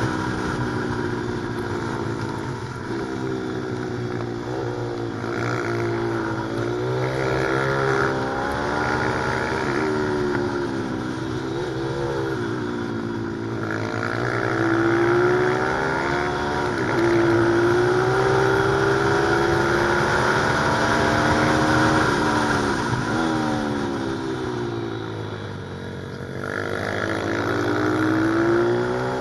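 Pit bike engine revving hard while being ridden, its pitch climbing and dropping over and over as the throttle opens and closes and the rider shifts.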